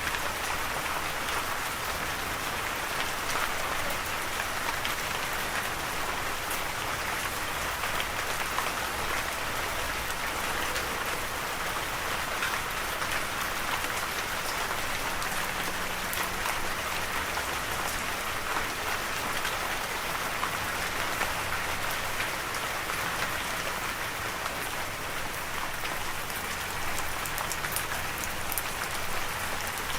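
Steady rainfall, a continuous even hiss with many fine drop ticks as rain patters on a surface.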